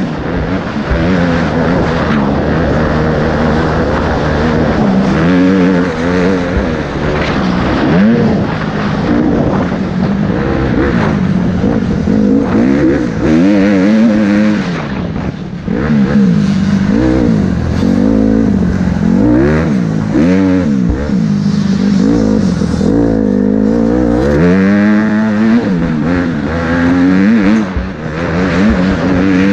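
Motocross bike engine revving hard, its pitch rising and falling over and over as the throttle opens and closes and the gears change.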